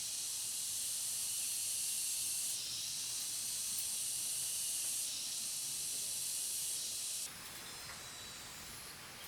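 Cicadas droning in a steady high-pitched hiss that shifts in level a couple of times and cuts off abruptly about seven seconds in, leaving fainter insect sounds.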